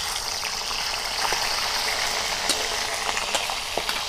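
Stuffed kundru (ivy gourd) sizzling as they are dropped into hot mustard oil in a metal kadhai, a steady frying hiss. There are a few light clinks of the metal spatula.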